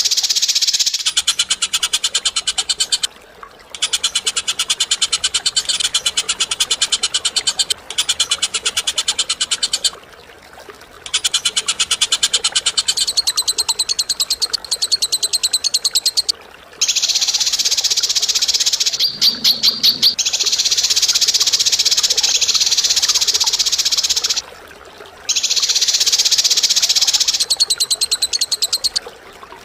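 A bird giving long, very fast, high rattling trills, each running several seconds, with short pauses between them.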